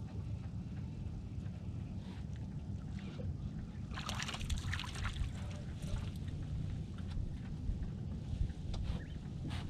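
Wind rumbling on the microphone, with water splashing and sharp clattering clicks about four to five seconds in and again near the end.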